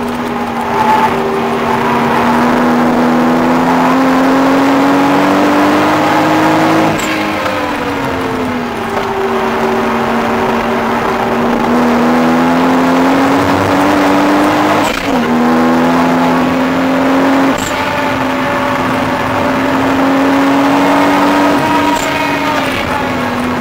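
Toyota Supra's straight-six engine heard from inside the car, held at high revs under load, its note climbing slowly and dipping sharply in pitch about seven seconds and fifteen seconds in.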